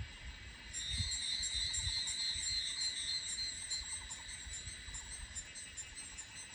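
Yangmingshan evening cicada (Tanna sozanensis) singing: a loud, pulsing high-pitched call that starts under a second in and tapers off near the end. It sits over a steady background drone of other insects.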